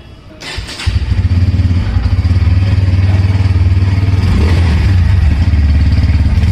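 Bajaj Pulsar P150's single-cylinder four-stroke engine starting: a brief clatter of cranking, then the engine catches about a second in and runs at a steady idle with an even, fast exhaust pulse.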